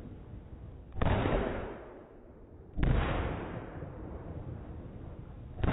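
Aerial fireworks bursting overhead: three sharp bangs about a second in, near the middle and at the end, each fading away over about a second.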